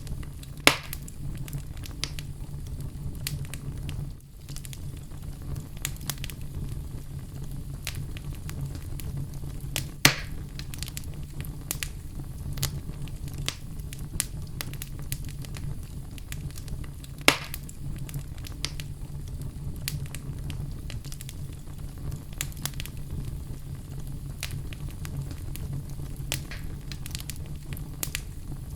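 Oak logs burning in a fireplace: a steady low rumble of flame under scattered crackles. Three loud sharp pops stand out: one near the start, one about a third of the way through, and one a little past halfway.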